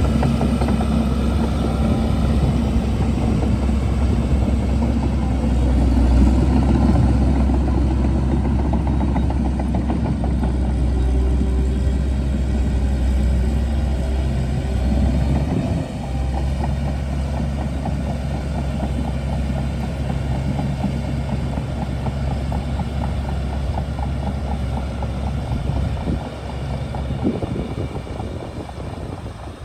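Shantui DH17C2 bulldozer's diesel engine running steadily as the machine works, with a brief dip about halfway through and the sound easing off near the end.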